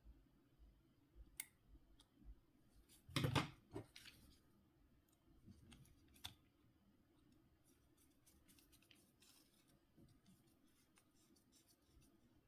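Small clicks from handling a Nokia C5-00 phone's parts and tools, with a louder burst of clicks about three seconds in.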